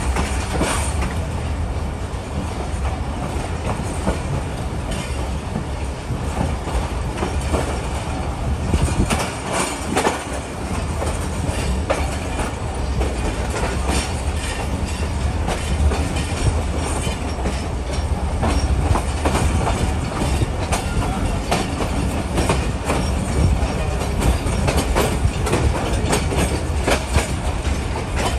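Passenger train running on the track, heard on board: a steady low rumble of wheels on rails with frequent sharp clicks and clacks throughout.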